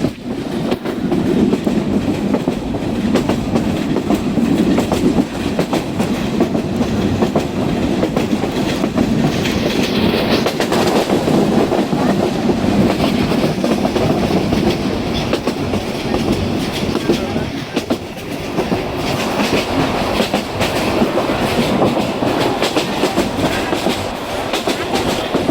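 Passenger train running along the track, heard from aboard: a steady rumble with the wheels clicking over the rail joints.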